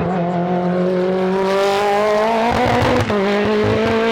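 A time-attack race car engine accelerating hard, its pitch climbing steadily. About three seconds in the pitch drops sharply at an upshift, then climbs again.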